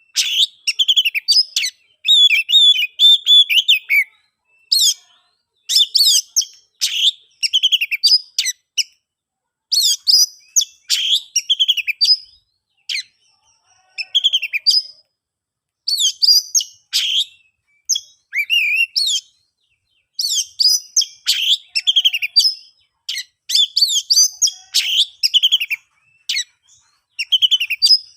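Oriental magpie-robin (kacer) singing in full, open voice: rapid runs of varied high whistles, sweeps and chattering notes, in bursts a few seconds long with short pauses between.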